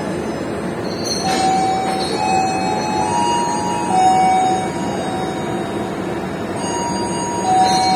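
Passenger train running with a steady rumble. A few high held tones come and go over it, shifting pitch now and then.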